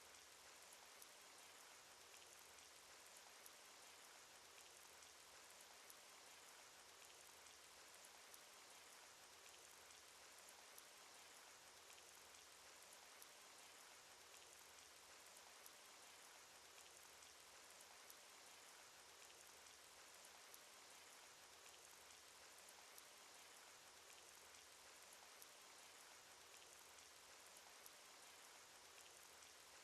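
Rain sound effect: a faint, steady hiss of rain with many small droplet ticks scattered through it.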